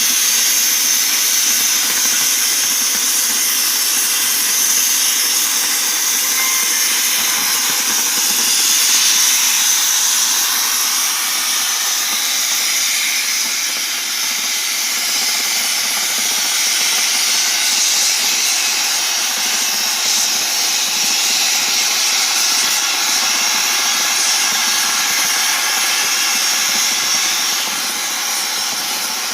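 CNC cutting torch's gas jet hissing steadily as it cuts through thick mild steel plate, a loud, even, high hiss.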